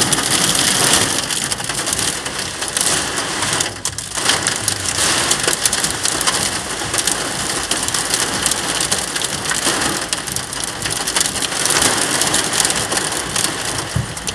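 Torrential storm rain pelting the car's roof and windows, a dense hiss full of small impacts, heard from inside the car. It eases briefly about four seconds in.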